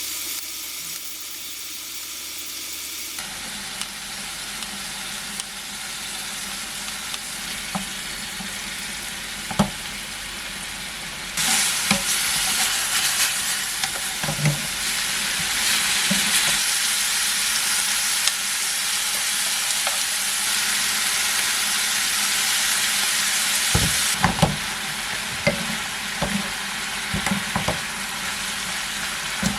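Food sizzling as it fries in a pan, with occasional knocks of a utensil against the pan as it is stirred. The sizzle grows louder about eleven seconds in.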